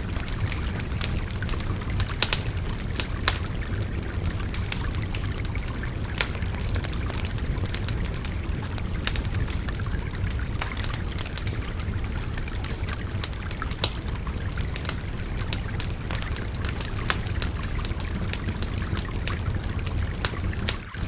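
Wood fire crackling and popping in sharp, irregular snaps over the steady rushing babble of a shallow river.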